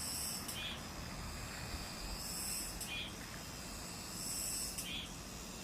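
Cicada singing: a high buzzing phrase about half a second long, repeated roughly every two seconds, each ending in a short sharp note.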